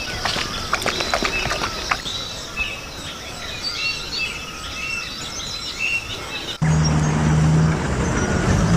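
Birds chirping outdoors, with scattered clicks. About two-thirds of the way in the sound cuts suddenly to a steady low hum of a small motor.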